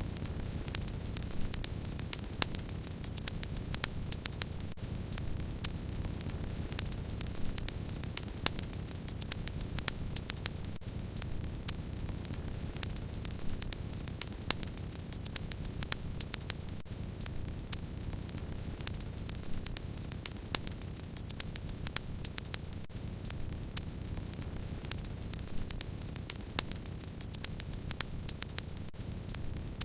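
Wood fire crackling: a dense, irregular run of sharp small crackles with occasional louder pops, over a steady low rumble.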